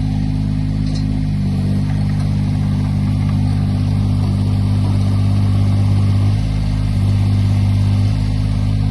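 Diesel engine of a JCB 8008 CT compact tracked excavator running steadily, its note shifting slightly a few times as the engine speed changes.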